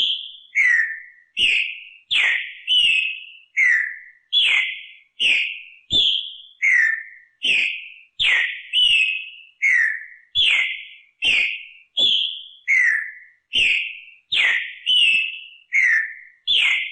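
Green-winged saltator (trinca-ferro) singing its song phrase over and over: a steady series of loud, clear falling whistles, about three notes every two seconds.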